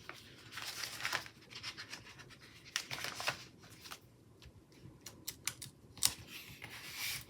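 Paper and sticker handling: stickers being peeled from a sticker book and pressed onto a planner page, heard as soft irregular scratches and rustles with scattered small clicks.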